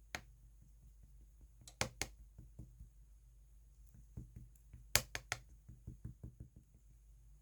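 Slime being pressed and poked by hand, making a run of sharp clicks and small pops. The loudest clicks come in a pair about two seconds in and a cluster about five seconds in, with quieter ticks between them.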